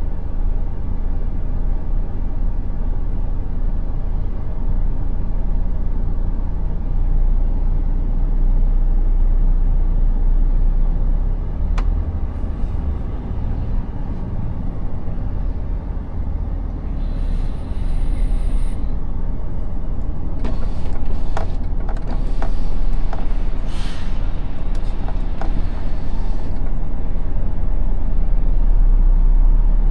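Truck's diesel engine running with a steady low rumble. About halfway through comes a short hiss of air like an air-brake release, followed by a string of clicks and knocks.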